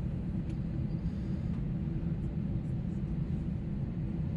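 Steady low rumble inside the cabin of an Airbus A321neo airliner with its engines running, with a few faint ticks.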